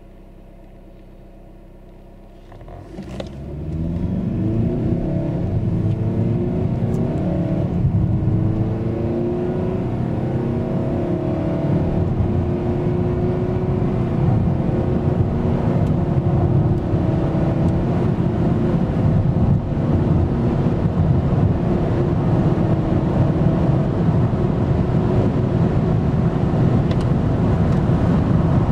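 Volvo V90 D4's 2.0-litre turbocharged four-cylinder diesel idling at a standstill, then pulling under full-throttle acceleration from about three seconds in. The engine note rises in pitch through each gear and drops back at several upshifts of the 8-speed automatic, heard from inside the cabin.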